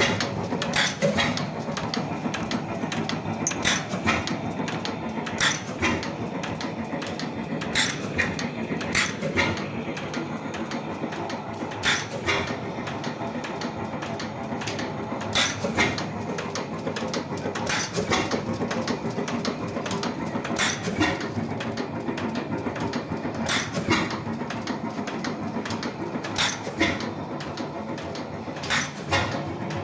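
Tangye 5 hp portable oil engine running, a steady mechanical clatter broken every two to three seconds by sharp beats, often in close pairs.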